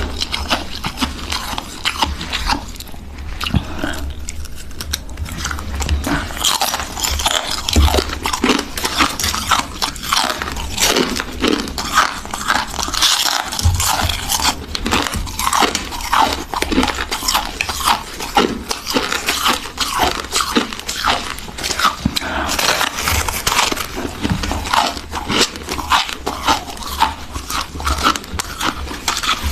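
Freezer frost being bitten and chewed: dense, continuous crunching made of many sharp crackles.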